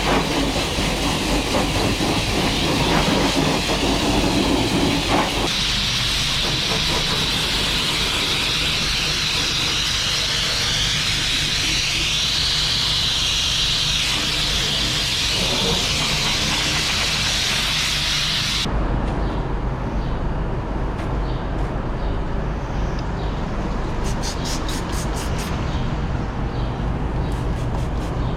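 A farm machine's engine running steadily, with a loud hissing rush over it that swells and then cuts off sharply about two-thirds of the way through. After that the engine runs on alone, with quick rapid ticking near the end.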